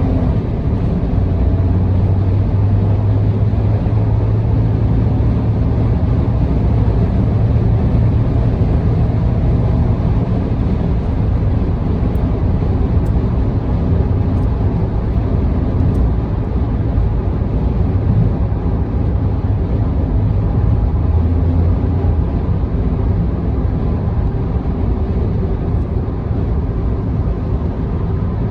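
Steady road and engine noise of a car cruising on an expressway, heard from inside the car. A low drone runs through most of it and fades about three-quarters of the way in.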